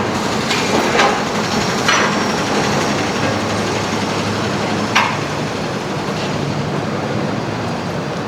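Steady rumble of city ambience with a low hum, broken by a few sharp knocks or clicks about one, two and five seconds in.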